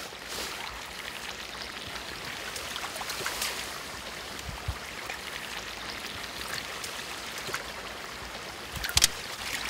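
Water splashing and trickling as a carp is tipped from a landing net into a keepnet, with a sharp knock near the end.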